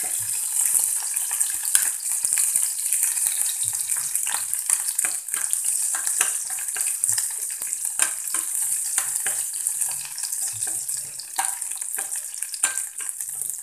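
Cashews and raisins frying in ghee in a stainless steel pan: a steady high sizzle, with frequent clicks and scrapes of a plastic spatula stirring them against the pan.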